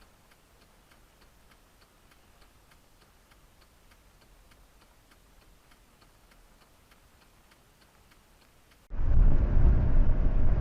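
Faint, steady ticking, about two ticks a second. About nine seconds in it is cut off by a sudden burst of loud vehicle and road noise.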